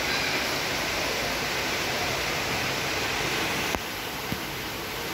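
Steady rain falling, an even hiss. About three-quarters of the way through, a sharp click, after which the hiss is a little quieter, and a small tick shortly after.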